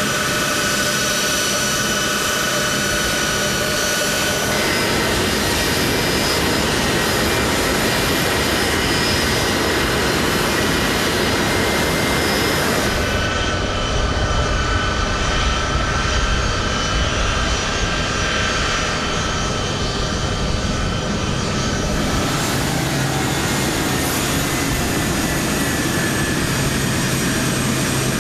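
C-17 Globemaster III's turbofan jet engines running, a loud steady rush with several steady whining tones that step in pitch a few times. About halfway through the high end drops away and a deeper rumble comes up for several seconds before the whine returns.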